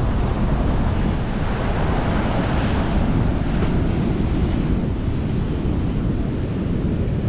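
Atlantic surf breaking and washing up the beach, a steady rush with a wash of hiss swelling about two to three seconds in, and wind buffeting the microphone.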